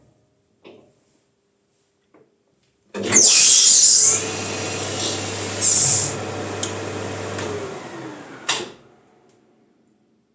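Maximat metal lathe switched on, spinning a bicycle disc brake rotor with a steady motor hum and two loud, high-pitched hissing bursts, the first right at start-up. Near the end the motor cuts out and the pitch falls as the spindle winds down, finishing with a sharp click.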